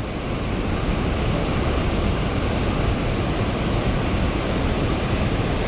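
Loud, steady rushing of a heavy water release pouring through the dam's outlet, a constant even noise with no breaks.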